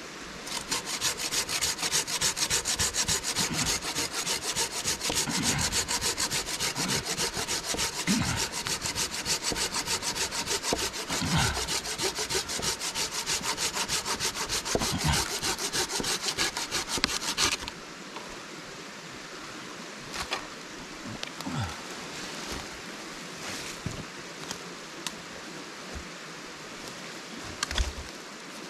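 Rapid, rhythmic rasping strokes for about seventeen seconds, then they stop abruptly, leaving a steady hiss with a few light knocks.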